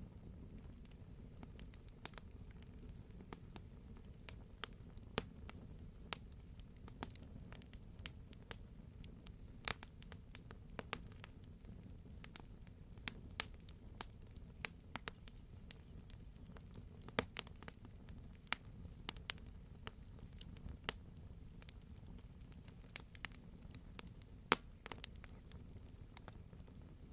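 Campfire burning steadily with irregular sharp crackles and occasional louder pops from the wood, over a low steady rumble of the flames.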